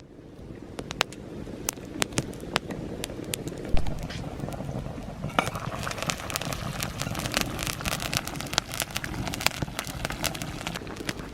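Wood crackling and popping in a campfire as food cooks over it, with sharp irregular pops. A single thump comes about four seconds in, and a steady hiss builds in about halfway through.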